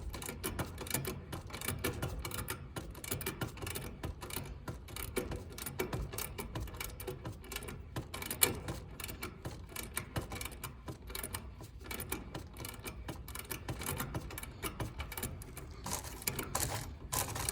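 Rapid, irregular clicking from a wrench turning open the suction-line service valve on an air-conditioning unit, the valve being run all the way out until it gets tight.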